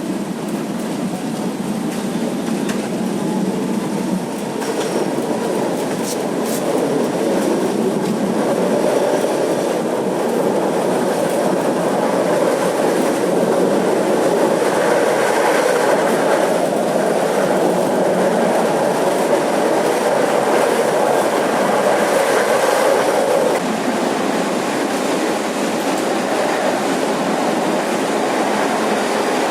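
A tram running along its rails with steady running noise that grows louder about 4 s in and eases off about 23 s in.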